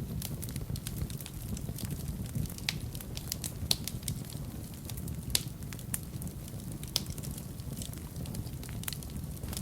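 Fire burning in a fireplace: a steady low rumble of flames with irregular crackles and sharp pops, a few louder pops in the middle.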